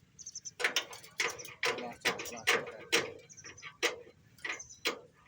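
A rapid series of sharp metallic knocks, about two a second and sharing a ringing tone, typical of a hammer striking steel during reinforcement and shuttering work.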